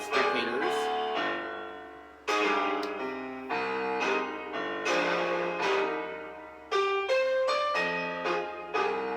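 Solo piano music: chords struck every couple of seconds, each ringing and dying away before the next.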